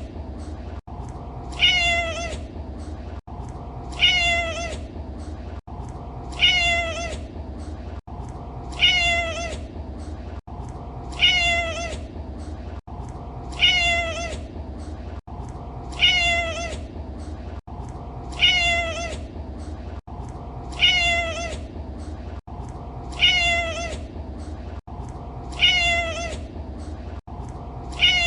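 A domestic cat's meow, the same call repeated about every two and a half seconds, about twelve times, as a looped recording. Each meow rises sharply and then falls away. A steady low rumble runs underneath.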